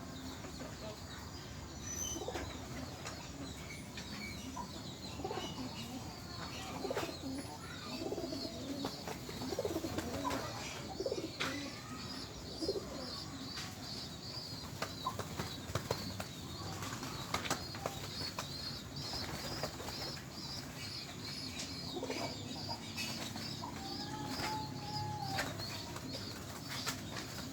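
Pigeons flapping their wings again and again in short sharp bursts, with cooing here and there. A rapid, evenly repeated high chirping runs through the second half.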